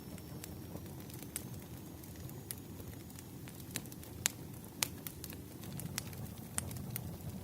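Firewood burning: a steady low rumble of flames with scattered sharp crackles and pops, the loudest two a little past the middle.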